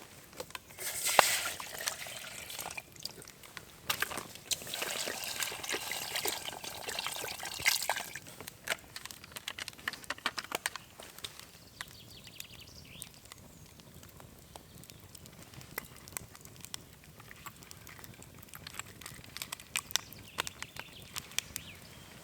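Liquid being poured in short stretches, among scattered clicks and knocks of camp gear being handled.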